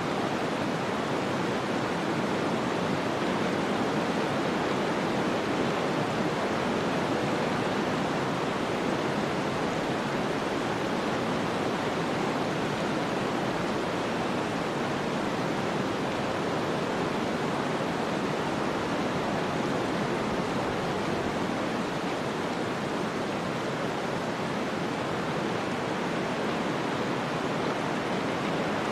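Snowstorm ambience: a steady, even rushing noise of wind-driven snow, with no gusts, knocks or other distinct events.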